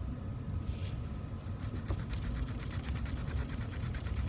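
Hand file rasping in quick, even back-and-forth strokes across a 14k gold strip, cutting a groove for a fold, starting about a second and a half in. A steady low hum runs underneath.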